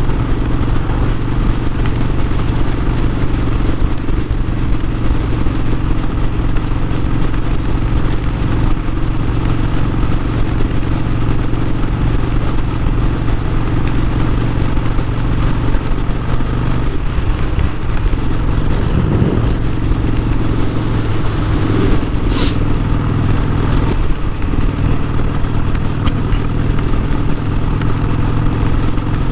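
Harley-Davidson Sportster 1200's V-twin engine running at a mostly steady pace, its note shifting briefly a little past the middle. A single sharp click comes a few seconds later.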